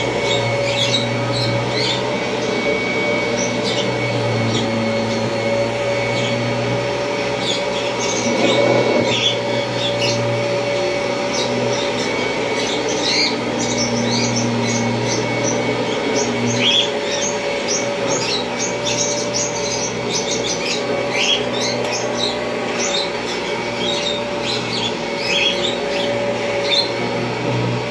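1991 Kirby Generation 3 upright vacuum cleaner running steadily, a constant motor hum with a steady whine over it. Many short high chirps are scattered throughout, with a slight swell in level about eight seconds in.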